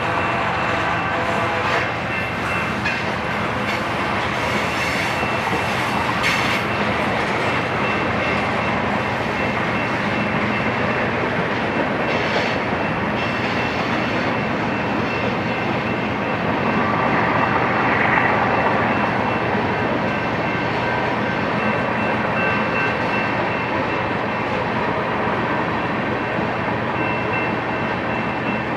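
Freight cars of a BNSF manifest train rolling past close by: a steady rumble and clatter of steel wheels on rail, with a thin high tone running through it. It grows briefly louder about two-thirds of the way through.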